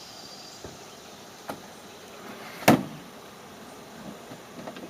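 A single sharp knock about two and a half seconds in, with a fainter click a second or so before it, over a steady low background.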